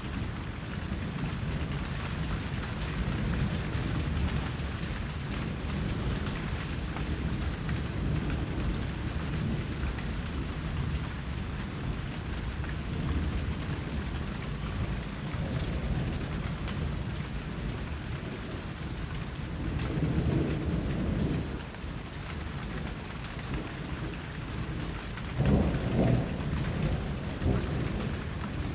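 Steady rain falling, with a constant low rumble under the patter. It swells louder twice, briefly about two-thirds of the way through and again near the end.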